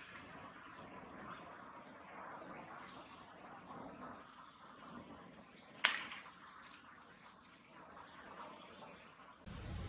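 A small bird calling: a series of short, high chips, coming faster and louder in the second half. There is one sharp click about six seconds in.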